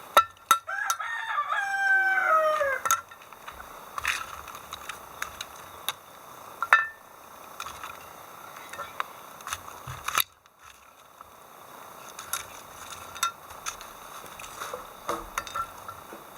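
A rooster crows once, about a second in: a call of roughly two seconds that drops in pitch at the end. Scattered light clicks and knocks follow.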